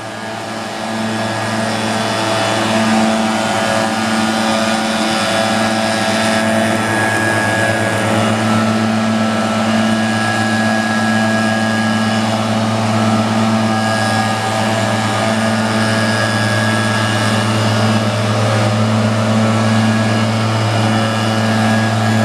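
Engine running steadily at one constant speed, getting louder over the first couple of seconds and then holding an even pitch.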